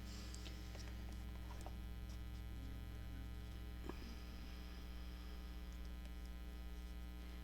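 Steady electrical mains hum, with a few faint ticks from thread and paper being handled during hand-stitching.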